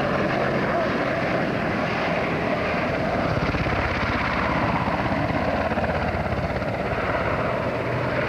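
AH-64 Apache attack helicopter making a high-speed pass, with a steady, loud rush of rotor and engine noise and a rapid rotor beat.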